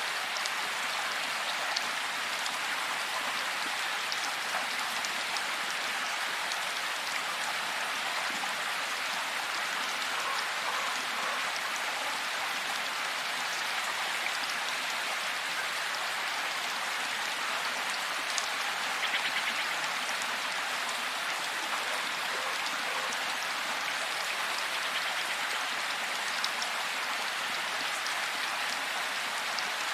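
Heavy rain falling steadily: an even hiss of rainfall with scattered individual drops ticking through it.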